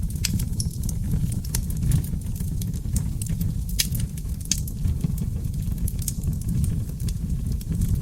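Seasoned oak logs burning in a fireplace: a steady low rumble of flames with frequent sharp crackles and pops, a few of them louder.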